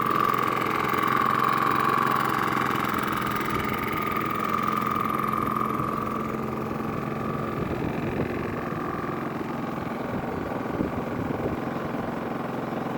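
Champion 4650-watt inverter generator's single-cylinder gasoline engine running steadily, with a high whine that is strongest in the first half and fades after about six seconds.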